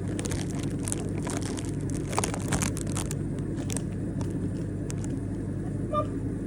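White-bellied caique playing: scattered clicks, crackles and rustles, with a short chirp about six seconds in, over a steady low hum.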